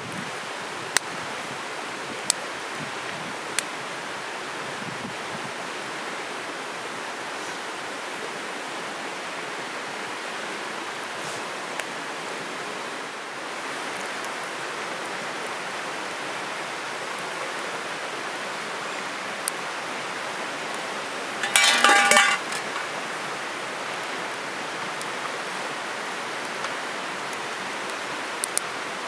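Steady rushing of a stream, with a few sharp ticks scattered through. About three quarters of the way in comes a brief, loud clatter with ringing tones.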